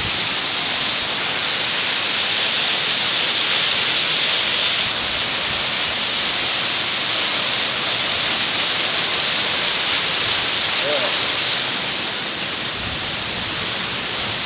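Waterfall plunging into its pool close by, a steady, loud rush of falling water with no break.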